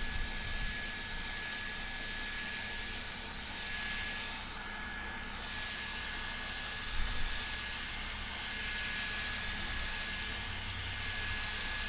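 Small clip-on portable fan running, a steady whir of air with a constant thin motor whine. The rush of air swells and eases a few times.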